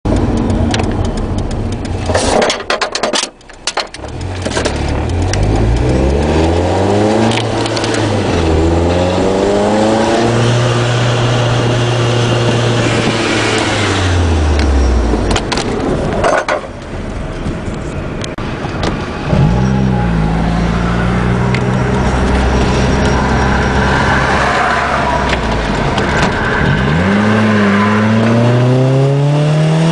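Supercharged Nissan Sentra SE-R Spec V's 2.5-litre four-cylinder engine through a Nismo exhaust, pulling up through the revs several times as the car accelerates, holding steady while cruising in between and dropping once as it eases off.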